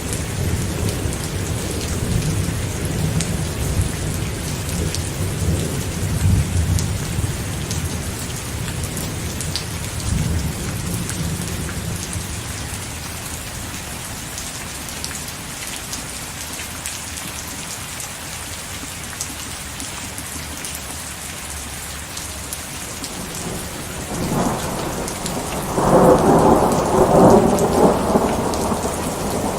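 Steady rain with rolling thunder. A low rumble of thunder dies away over the first ten seconds or so, and a louder peal of thunder rolls in about four seconds before the end.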